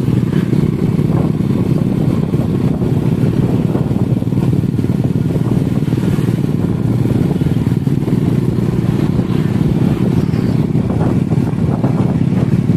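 Motorcycle engines running steadily at cruising speed while riding along a road, a dense, even drone with no revving.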